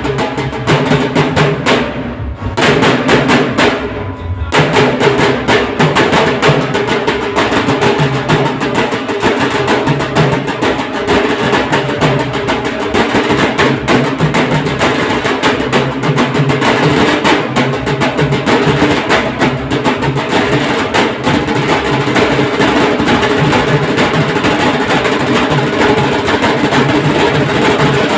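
Dhol drums played in a fast, dense, steady rhythm, with a pitched melodic line sounding over the drumming. The upper part of the sound thins out briefly twice near the start.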